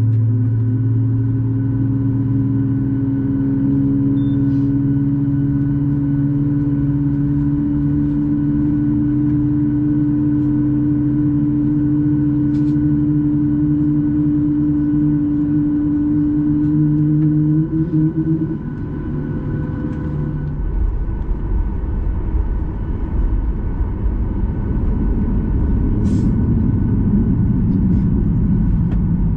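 Boeing 737 MAX 8's CFM LEAP-1B jet engines heard from inside the cabin. First a steady droning hum that creeps slowly up in pitch, then, about two-thirds of the way through, a loud, deep rumble takes over as the takeoff roll begins. A few faint clicks sound in the cabin.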